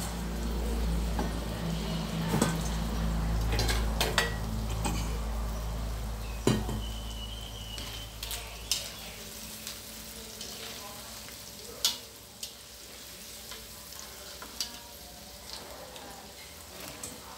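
Wontons sizzling as they deep-fry in hot oil in a steel wok, while a metal spatula scrapes and knocks against the wok to stir them, giving scattered sharp clicks. A low hum underneath stops about halfway through.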